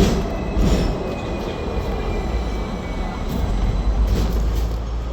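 Hong Kong double-decker electric tram running on its street rails: a steady low rumble with a couple of rattling knocks about the start, and a faint high wheel squeal that slowly drops in pitch.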